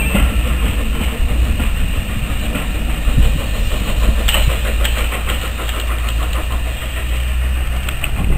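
Heritage railway train rolling past and moving away, its carriages rumbling along the track with faint clicks from the rails.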